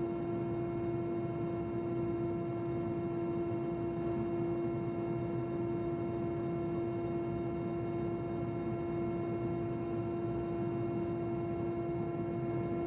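Helicopter cabin noise in steady flight: an unchanging drone made of a constant mid-pitched hum with higher overtones over a low rumble.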